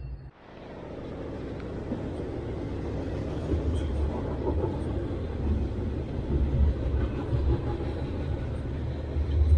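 Freight train rolling along the tracks, a steady low rumble that comes in about half a second in and swells unevenly.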